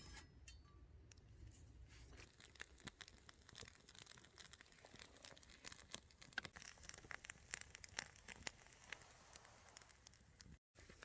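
Faint, irregular crackling and popping from a small wood fire in a camp stove with meat cooking over it, with a brief dropout near the end.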